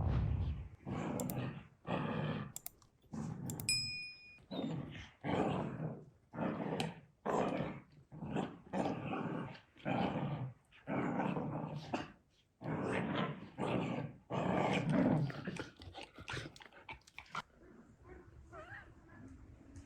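An animal calling over and over, about one call a second, stopping about seventeen seconds in.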